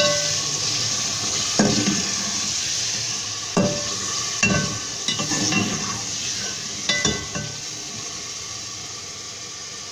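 Slotted metal spatula scraping and clinking against the pot as boiled chickpeas with green chillies and whole spices are stirred and fried in hot oil, over a steady sizzle that gradually quietens. This is the bhunai stage, the chickpeas being sautéd in the oil and masala.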